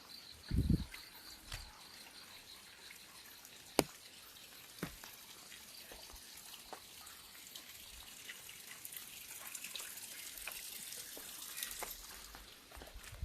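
Rain dripping onto an umbrella: a steady light hiss with scattered sharp drops, one loud one about four seconds in, the hiss growing a little stronger in the second half. An insect chirps in quick pulses until about a second in, and there is a soft thump just before it stops.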